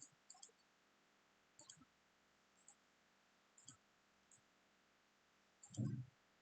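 Faint computer mouse clicks, scattered singly and in quick pairs across several seconds, followed by a louder low thump near the end.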